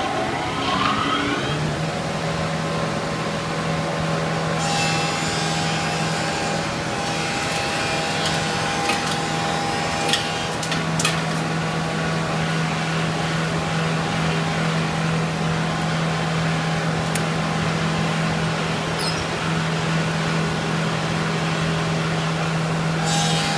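Thickness planer running: its motor winds up to speed in the first second or so, then runs at a steady pitch. A harsher, higher hiss joins for a couple of seconds about five seconds in and again near the end, as a board feeds through the cutterhead. A few sharp knocks come around ten seconds in.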